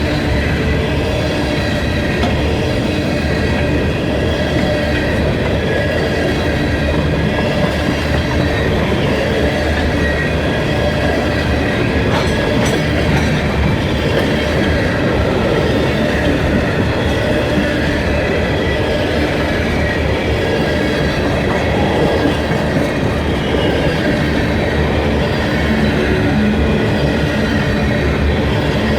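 Freight train cars rolling past at a steady pace: a constant rumble of steel wheels on rail, with faint high wheel squeal running through it.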